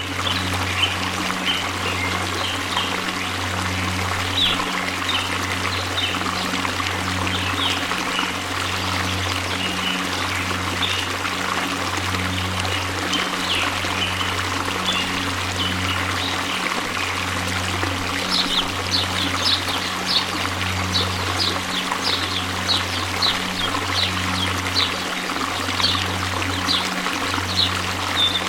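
Waterfall: a steady rush of falling water with a trickling, pouring character, and birds chirping over it, the chirps coming in a quick run about two-thirds of the way through. A low hum pulses about once a second underneath.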